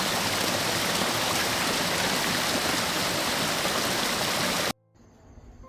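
A steady, even rushing of water that cuts off suddenly near the end.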